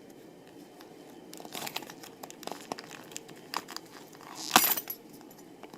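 Plastic key fob shell being handled and pried open: a run of small clicks and scrapes, with one sharper click about four and a half seconds in.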